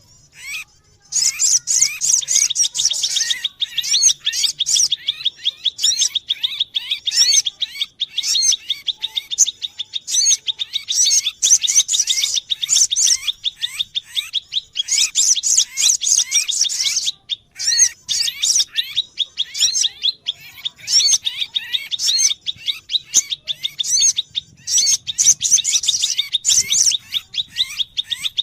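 Kolibri sogo ontong (sunbirds) chirping and twittering: a dense run of rapid, high-pitched chirps and short sweeps, broken by a brief pause at the start and another about two-thirds of the way through.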